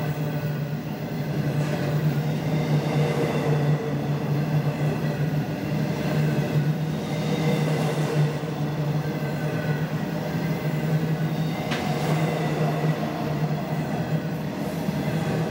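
Freight train's open-top cars rolling past on the track: a steady rumble with a strong low hum, and a few faint clacks from the wheels.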